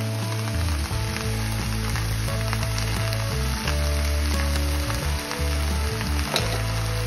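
Bok choy sizzling in oil in a frying pan, with scattered small pops and crackles. Background music with low held notes plays under it.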